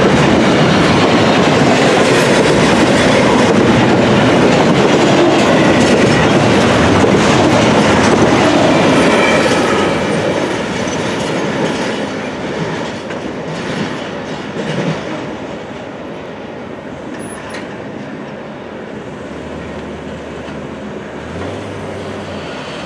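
Loaded double-stack container cars of a freight train rolling past on steel rails, their wheels running loud and steady. After about ten seconds the sound fades as the end of the train draws away. A low steady hum comes in near the end.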